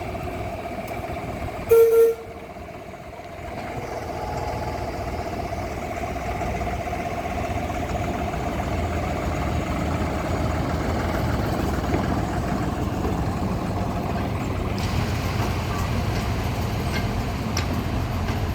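Steam locomotive being shunted: a short whistle toot about two seconds in, followed by the steady running noise of the engine and train.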